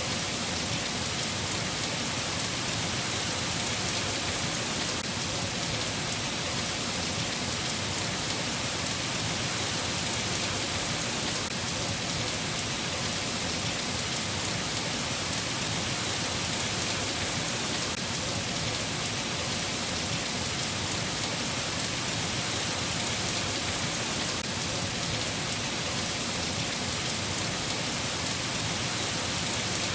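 Steady rain falling, an even hiss with no letup and no thunder.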